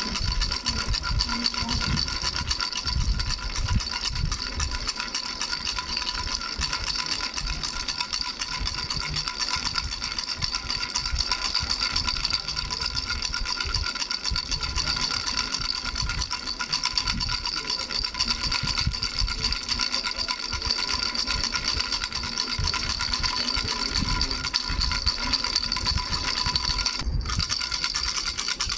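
Baby rattle with three bells shaken continuously: a steady jingling ring with irregular low knocks underneath, broken for an instant near the end.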